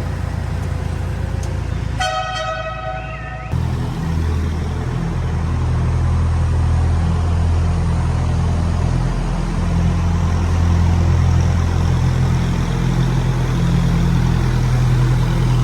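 A vehicle horn sounds once, held for about a second and a half about two seconds in. Then a loud, steady, low engine drone runs on.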